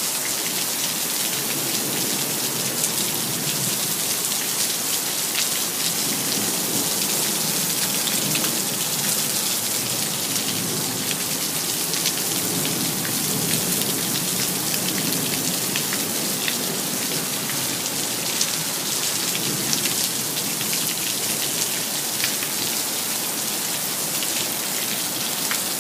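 Heavy rain pouring steadily, with the close patter of many drops striking nearby surfaces.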